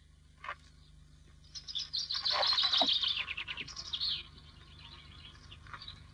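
A songbird singing one fast run of chirps lasting about two and a half seconds, over the steady low hum of an old film soundtrack; a single click sounds about half a second in.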